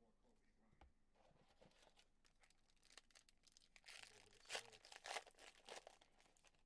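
Faint crinkling and tearing of a foil trading-card pack wrapper being ripped open, a crackly run of small rustles loudest from about four to six seconds in.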